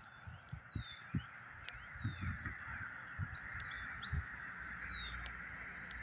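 Outdoor birds chirping: short, high, falling chirps come every second or so over a steady background hiss, with a few low bumps on the microphone.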